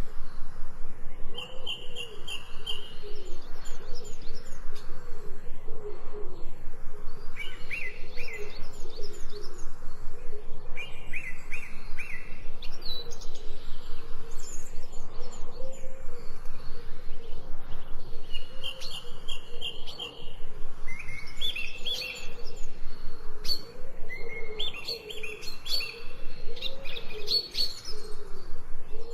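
Songbirds chirping and singing in a nature-sound recording: short high trilled phrases come every few seconds, some held briefly on one note. Under them runs a lower, fast, even pulsing.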